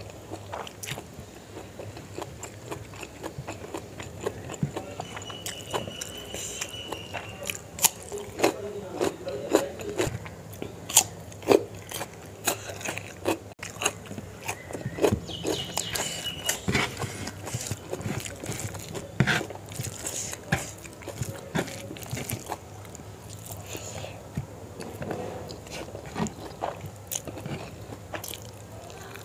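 A person chewing and biting food, with irregular crisp crunches of raw cucumber and carrot among softer chewing of rice and curry.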